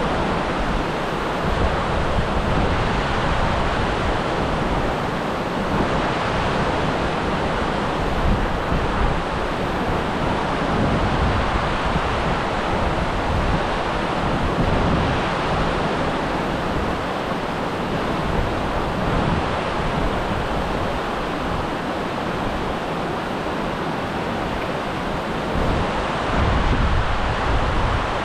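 Steady rush of flowing water, with wind buffeting the microphone in low rumbles.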